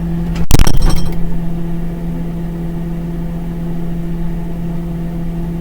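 Refrigerator door shutting with a clunk and brief rattle about half a second in, then a steady low hum while the device records from inside the fridge.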